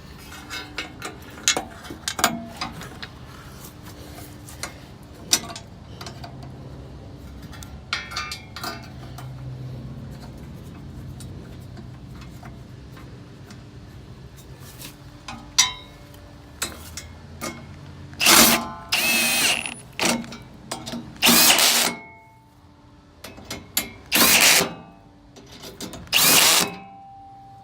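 Metal parts clinking and clanking, then a power drill or driver running in five short bursts of about a second each near the end, driving bolts back in while the battery box cover and step go back on.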